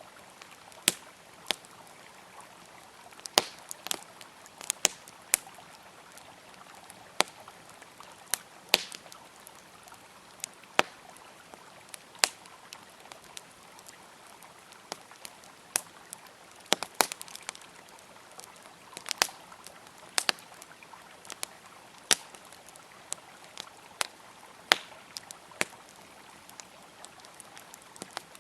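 Wood campfire crackling, with sharp irregular pops and snaps, over the steady rush of a flowing river.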